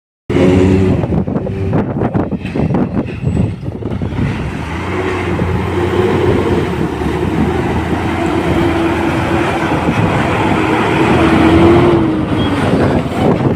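Heavy construction vehicle engine running loudly at a gravel yard, with irregular knocks and clatter in the first few seconds and a steady engine note that rises slightly near the end.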